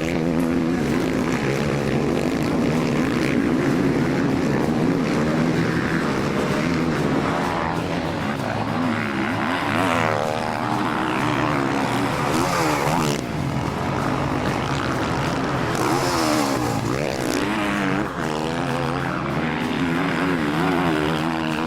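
Several motocross bikes racing, their engines revving up and down over and over as they accelerate and shift.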